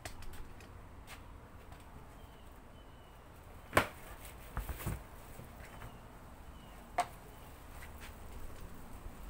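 Sharp knocks and clicks of a cyclone dust separator lid and trash can being handled and opened: one loud knock about four seconds in, a couple of lighter ones just after, and another about seven seconds in, over a low steady hum.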